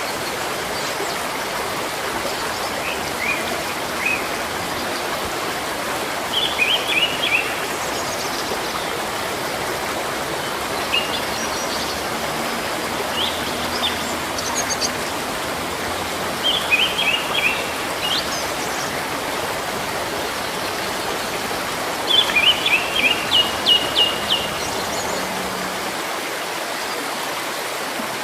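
Steady rushing of a stream or small waterfall, with a bird singing short phrases of quick, high chirps every few seconds, the longest phrase a rapid run of notes toward the end.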